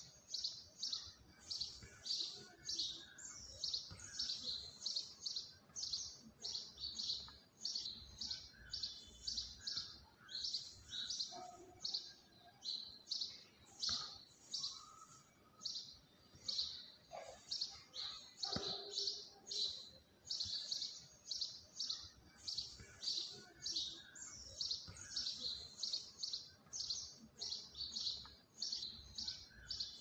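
Small birds chirping in a continuous string of short, high chirps, two or three a second.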